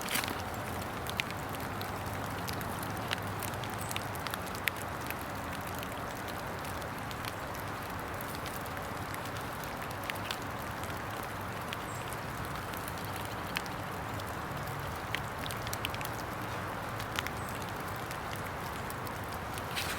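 Steady hiss of rain falling in woodland, with scattered sharp ticks of drops hitting nearby surfaces every second or two.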